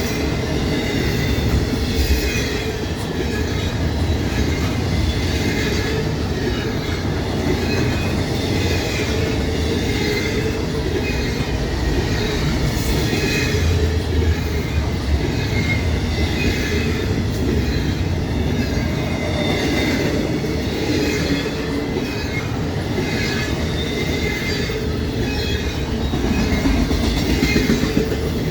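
Freight train cars rolling past at track side with a steady rumble of steel wheels on rail. Wheel squeal comes and goes over it, with some clicking of wheels over the rail joints.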